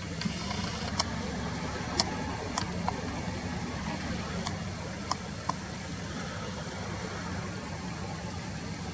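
Steady low engine-like rumble, with a few short sharp clicks scattered through it.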